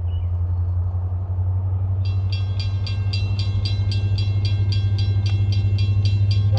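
A steady low rumble of the approaching train. About two seconds in, a railroad bell starts ringing rapidly and evenly, about four to five strokes a second.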